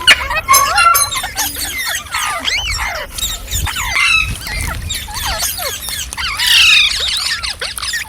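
Several green parrots calling at once: a steady run of squealing, chattering calls that rise and fall in pitch, with a louder harsh screech about six and a half seconds in.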